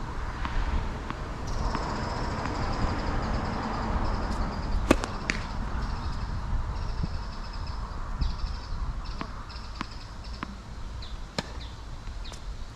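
Tennis ball being played on a hard court: a few sharp racket hits and bounces spaced through the rally, over steady gusty wind noise on the microphone.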